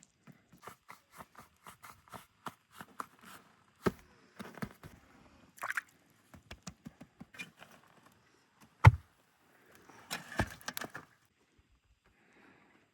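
Kitchen handling noises during food preparation: a run of small clicks and taps, a sharp knock about nine seconds in, and a short rustling scrape just after it.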